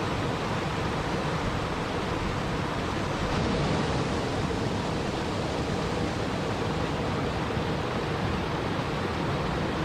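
Steady rushing water noise, an even hiss and rumble with no distinct drops, splashes or thunder, slightly fuller for a moment about three and a half seconds in.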